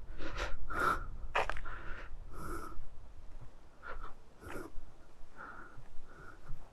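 A person breathing hard close to the microphone, with short irregular puffs of breath while walking.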